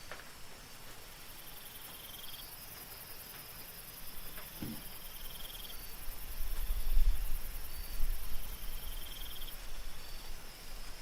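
Night insects chirping: a steady, very high, fast-pulsed cricket trill with a shorter chirp repeating every few seconds. A low rumble swells in about halfway through and fades near the end.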